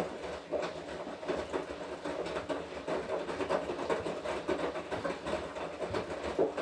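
Washing machine running its wash cycle, the drum turning the wet laundry with a steady, dense rattling and sloshing full of irregular knocks.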